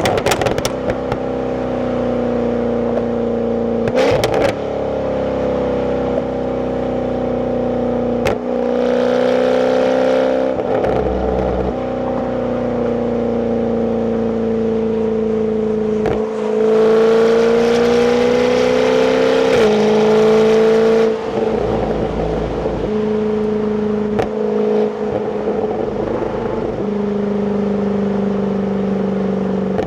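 Jaguar F-Type's 5.0-litre supercharged V8 on its stock exhaust, heard from the passenger seat while driving at moderate revs. The engine note steps several times through gear changes, and a firmer pull in the middle half of the stretch rises in pitch before dropping sharply at an upshift.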